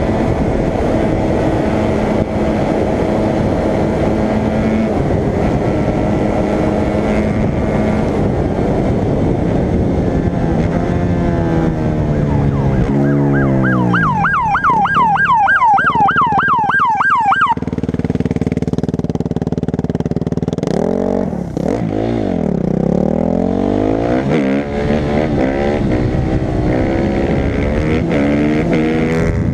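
Motorcycle engine running hard, its pitch rising and falling as it revs up and down. A police siren yelps in a fast warble for a few seconds about halfway through.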